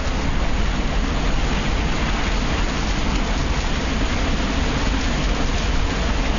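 Hurricane rain and wind, a steady rushing noise with a deep rumble underneath.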